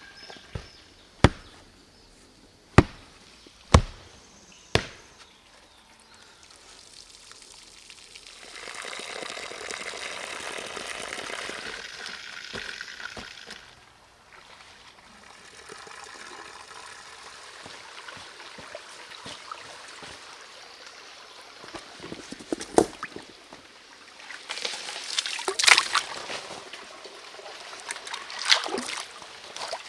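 Four sharp knocks in the first five seconds, then water pouring and trickling for about five seconds, with more knocks and splashing near the end.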